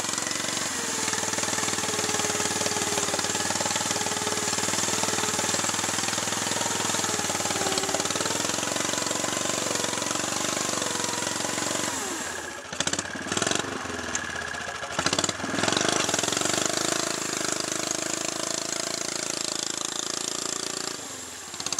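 Riding lawn tractor's small engine running, its revs rising and falling. About halfway through it dips and breaks up briefly with a few sharp cracks, then runs on.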